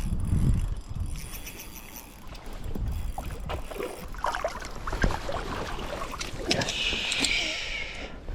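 Water splashing with low wind rumble on the microphone and scattered knocks, with a brief rush of hiss near the end.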